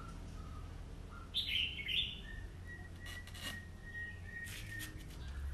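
Bird chirping: a short loud burst of high chirps about a second and a half in, followed by a faint thin whistle held for a couple of seconds. A few light clicks can be heard.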